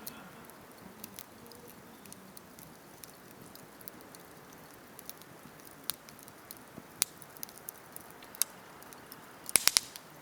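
Wood campfire crackling: scattered sharp pops and snaps over a faint steady hiss, with a quick run of louder pops near the end.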